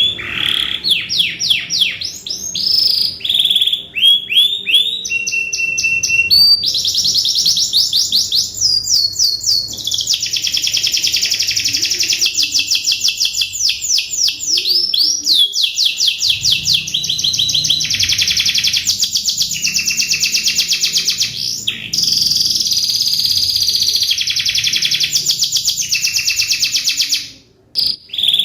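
Domestic canary singing a long, continuous song of rapid high trills and rolled phrases, each phrase a fast run of repeated notes. The song breaks off briefly just before the end.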